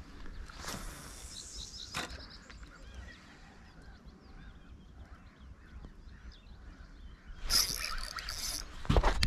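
Small birds chirping faintly over quiet lakeside ambience, with a short hiss about half a second in and a louder rustling burst and a thump near the end.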